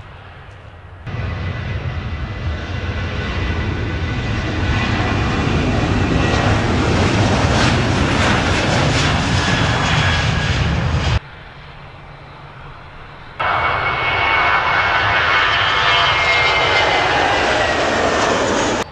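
Airliner engines running loud at close range, with a steady high whine over a broad roar. The first burst builds louder over about ten seconds and cuts off abruptly; after a quieter gap of about two seconds a second equally loud burst starts suddenly.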